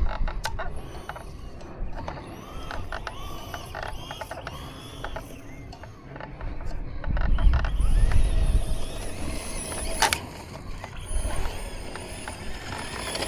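Electric RC truck's motor and geared drivetrain whining, the pitch rising and falling as it accelerates and slows, with scattered clicks and rattles. A low rumble swells in the middle, and there is a sharp click about ten seconds in.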